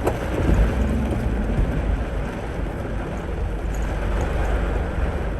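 Steady cabin noise of a car driving through a torrential downpour: a low road rumble with rain and wind on the car's body.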